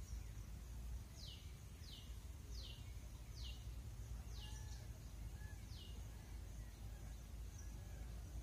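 A small bird gives a run of six short, high notes, each falling quickly in pitch. They come a little under a second apart and space out toward the end, over a steady high hiss.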